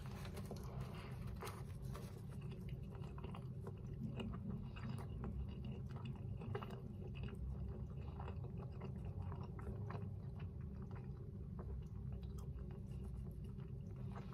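A man biting into and chewing a beef burger with egg and barbecue sauce: faint, irregular chewing sounds over a steady low hum.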